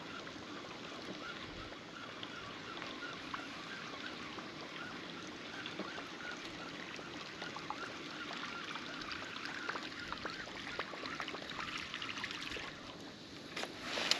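Water swishing and lapping along the hull of a fishing kayak under way, with many small ticks and clicks. A brief louder rush comes near the end.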